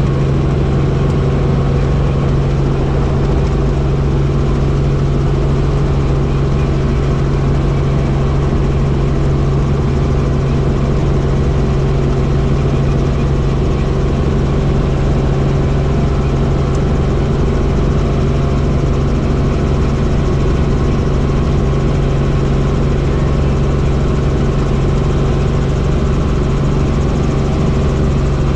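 Helicopter in flight: steady engine and rotor noise with a strong low hum that holds one pitch.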